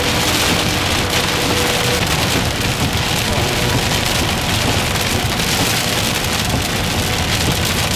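Heavy rain falling on a moving car's windshield and roof, a steady loud hiss with road noise beneath.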